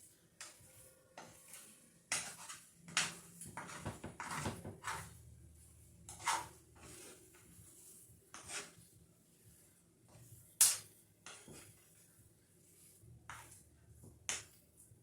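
A cooking utensil clinking and scraping against cookware in irregular knocks, the sharpest about ten and a half seconds in.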